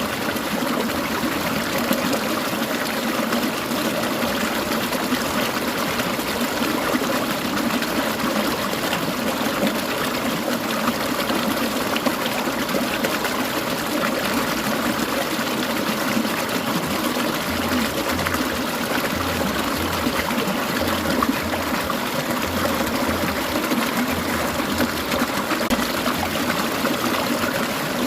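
Clear mountain stream trickling and babbling: a steady, unbroken rush of running water.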